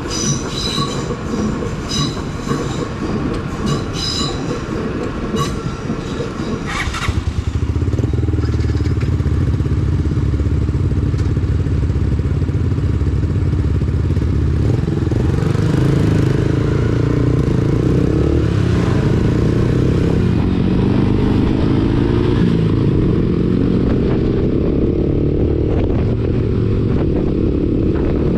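Lexmoto Assault 125's single-cylinder engine through a Black Widow aftermarket exhaust, running under load and getting louder about seven seconds in, then revving up and down through the gears. During the first several seconds a high squeal repeats about once a second over the engine.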